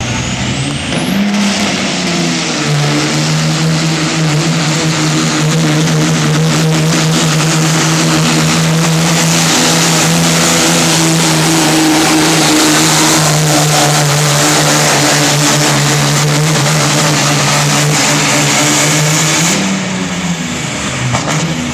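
Diesel pickup truck engine at full throttle pulling a weight-transfer sled. It revs up at the start and holds a steady high engine note for about seventeen seconds, then the note drops off near the end.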